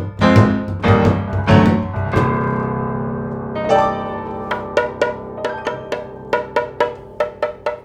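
Piano music: a few loud struck chords, then a long held chord fading away, then a steady run of short repeated notes.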